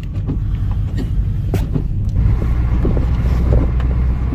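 Inside a vehicle's cabin, the low steady rumble of an off-road vehicle crawling over a rough dirt trail, with a few sharp knocks and rattles from the body and gear as it bumps along.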